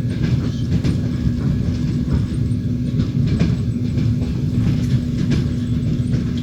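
Passenger train running along the line, heard from inside the carriage: a steady low rumble of the wheels on the rails with a steady low hum and a few faint clicks of the wheels over the track.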